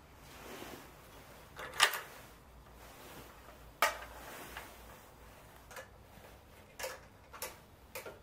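Sharp clicks at uneven intervals: two loud ones about two and four seconds in, then several lighter ones closer together near the end.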